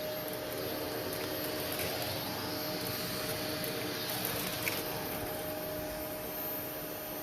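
Vacuum cleaner running steadily: an even motor hum with a hiss of moving air.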